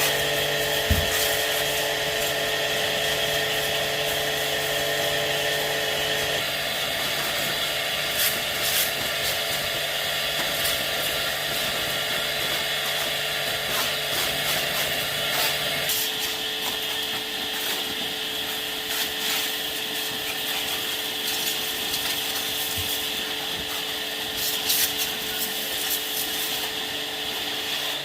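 An electric power tool's motor running steadily, with its tone shifting a couple of times as the load changes, and a few short knocks of metal parts.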